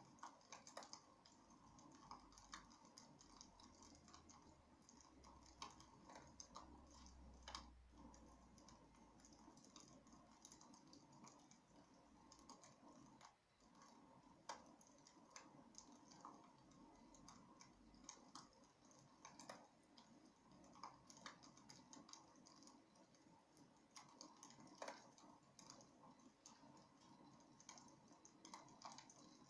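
Faint wood fire crackling in a fireplace: irregular small pops and snaps over a soft steady hiss.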